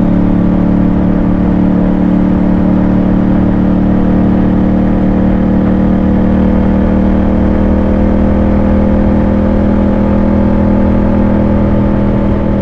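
Yamaha MT-07's parallel-twin engine running at a steady cruise with a steady rush of wind noise.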